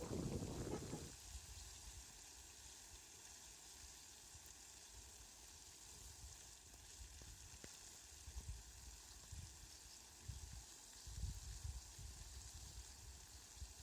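Faint steady hiss, with a few short low rumbles on the microphone, after a louder sound cuts off about a second in.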